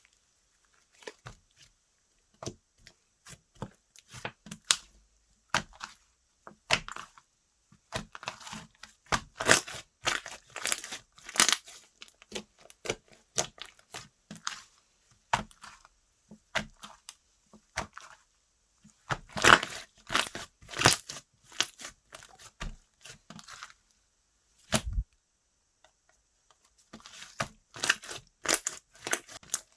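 Hands squishing, stretching and pressing slime, with irregular flurries of sticky crackling and popping clicks. There is one duller thump about 25 seconds in, followed by a short lull before the crackling starts again.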